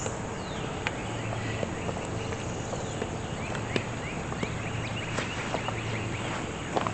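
Outdoor ambience with birds chirping: a run of short, quick rising chirps, thickest in the second half, over a faint low hum and a few small clicks.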